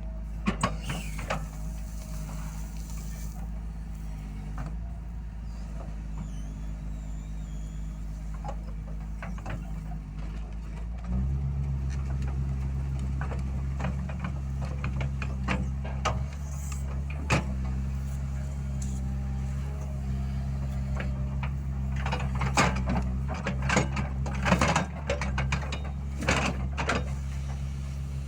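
Heavy diesel road-works machine running steadily. Its engine note steps up about eleven seconds in, with scattered metallic clanks and knocks that come thicker near the end.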